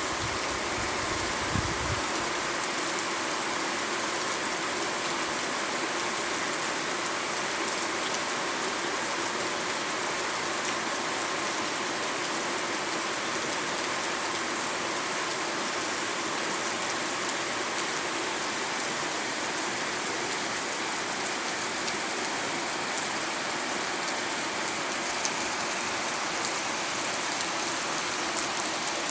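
Heavy rain falling steadily, a dense even hiss with scattered sharp drop ticks. A brief low rumble in the first couple of seconds.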